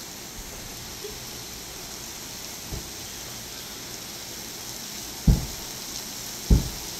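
Steady hiss of heavy rain falling on pavement, lawns and trees. In the second half there are three short, dull thumps, the last two the loudest.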